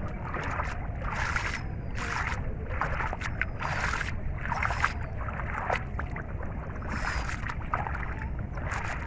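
Water splashing and sloshing in short bursts, about one a second, as hands grope through river water, over a steady low rumble.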